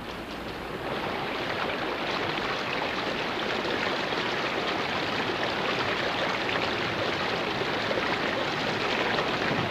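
Heavy rain and running water in a steady rush that grows louder about a second in.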